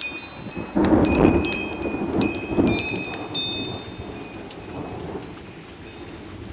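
Thunder rumbling from a severe thunderstorm, starting about a second in, loudest over the next two seconds and then fading, over steady rain. High chime tones ring out in clusters over the rumble.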